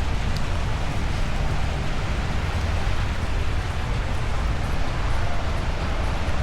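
Steady hiss of falling rain over a low, continuous rumble, with an occasional faint drip tick.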